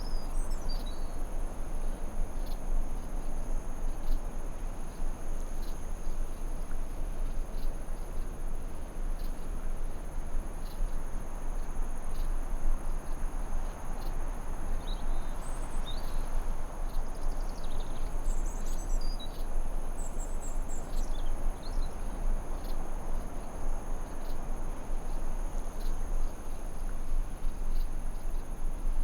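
Forest ambience: a steady high-pitched drone of crickets or other insects over an even background hiss, with scattered short bird chirps, most of them in the middle stretch.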